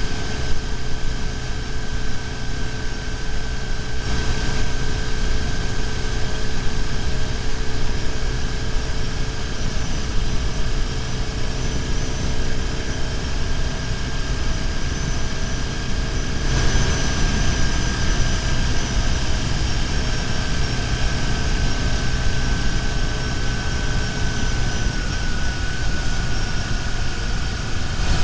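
BMW R1150GS motorcycle's boxer-twin engine running steadily at cruising speed, heard from a camera mounted on the bike, under a constant rush of wind and road noise. The rush gets a little brighter about two-thirds of the way through.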